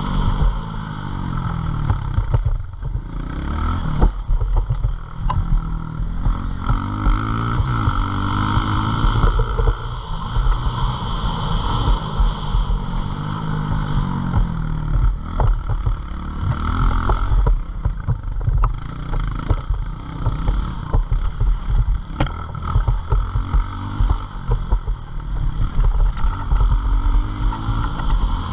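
Single-cylinder pit bike engine revving, its pitch climbing and falling back again and again every few seconds as the bike is ridden hard.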